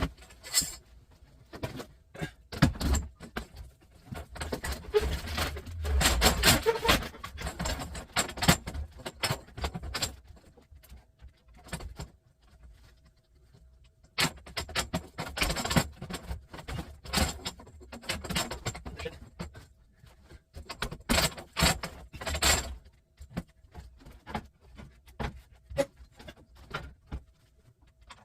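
Garage door pulley, cable and spring hardware clinking and rattling in irregular bursts, metal on metal, busiest in the first ten seconds and again in the middle.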